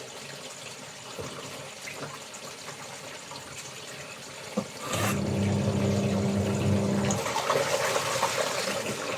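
A few light knocks, then a sudden click about five seconds in as water starts running with a steady motor hum. The rush of water grows louder near the end.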